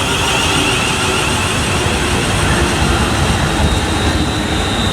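Class 350 Desiro electric multiple unit running through the platform, a loud steady rumble with a high electric whine over it.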